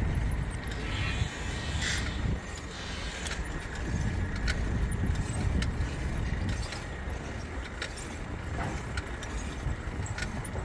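Urban outdoor noise: a continuous, uneven low rumble of traffic, with scattered light clicks and small metallic jingles through it.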